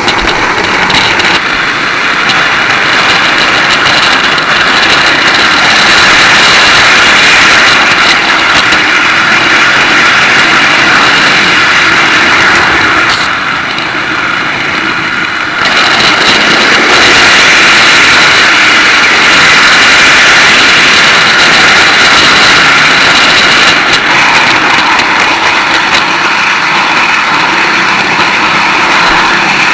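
Model train running along the track, heard close up: a steady whirring and rattling of the motor and wheels on the rails, briefly quieter and duller about halfway through.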